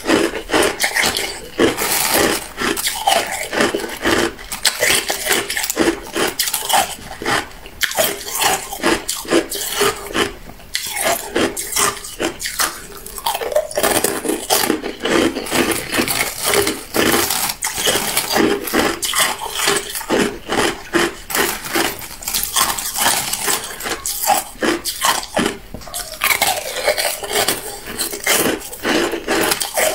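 Hard clear ice being bitten and chewed: a dense, continuous run of sharp crunches and cracks, with a few brief pauses.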